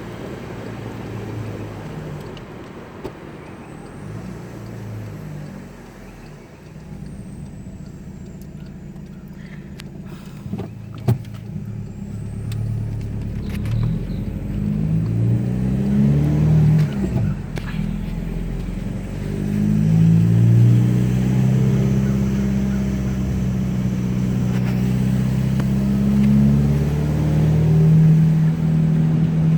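2010 Volkswagen Jetta TDI's 2.0-litre four-cylinder turbodiesel through a full 3-inch straight pipe, on a drive. Its note climbs in pitch several times around the middle, then runs louder and steadier under load; a sharp click sounds about a third of the way in.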